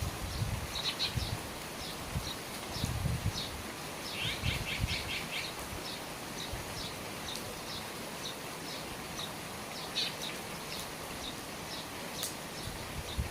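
Steady rain falling on the eaves, with low irregular thuds of water striking below. Small birds chirp again and again over the rain, with a quick run of notes about four seconds in.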